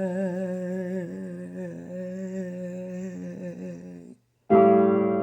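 A singer humming one long held note with a slight waver, which breaks off about four seconds in; a louder sung note cuts in abruptly just after.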